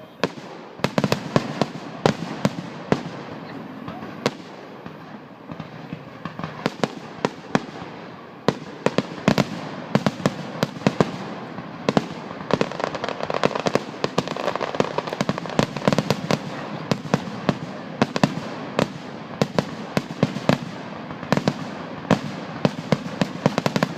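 Fireworks going off in a continuous barrage: many sharp bangs and crackling reports, coming thicker and faster after the first several seconds.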